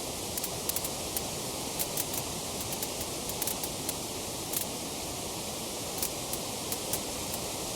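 Wood fire crackling: a steady hiss with many small sharp pops and snaps scattered irregularly, several a second.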